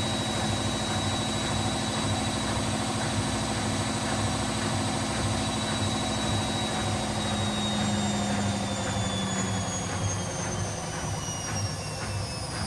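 Washing machine on its spin cycle: a steady motor whine with a regular low pulse from the spinning drum, then the whine falls in pitch from about halfway through as the spin slows down.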